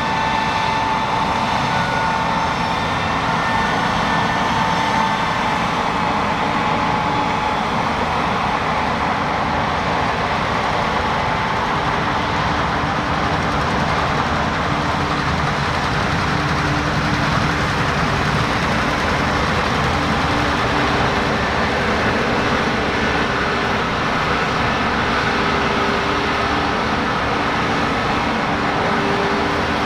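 Heavy farm machinery running steadily: a constant, even engine drone with a faint whine that wavers slightly in pitch, with no breaks or changes in load.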